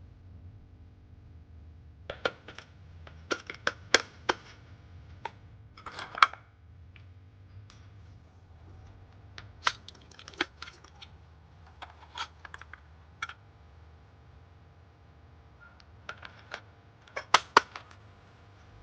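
Light clicks and knocks of small objects being handled, coming in short clusters with pauses between them, over a faint steady low hum.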